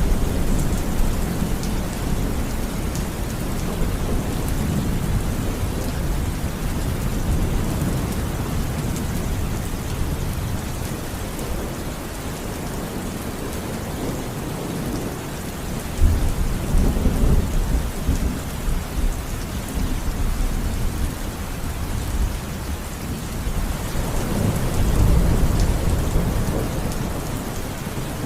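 Steady heavy rain falling, with thunder rumbling underneath: a sharper thunderclap breaks in about halfway through, and another long roll of thunder swells near the end.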